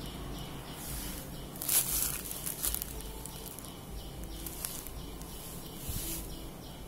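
Faint handling noise: soft rustling and a few light knocks as a ball screw is handled, over a steady background hiss.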